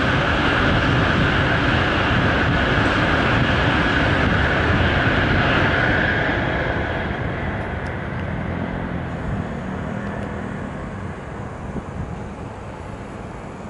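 A 16-car Shinkansen high-speed train running along a viaduct: a steady rushing noise of wheels and air that fades from about six seconds in as the train draws away.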